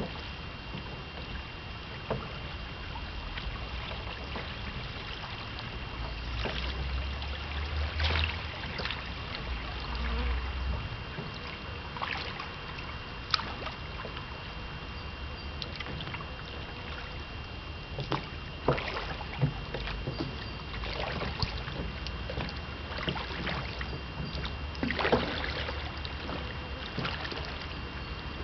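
Small boat out on the water: a steady noisy rush with scattered short, sharp knocks and splashes. Low wind rumble on the microphone comes in about a quarter of the way through.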